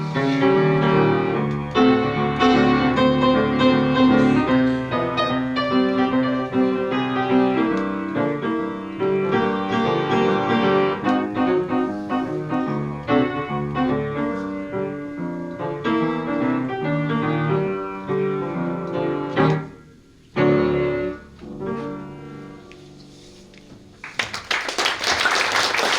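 Solo piano playing a short interlude of chords and melody, which thins out to a few soft closing chords about twenty seconds in. Near the end come about two seconds of applause.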